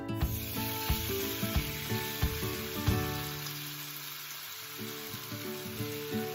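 Sliced pork dropped into hot oil in a non-stick frying pan, setting off a loud sizzle that starts suddenly and carries on steadily as the meat fries. Background music plays underneath.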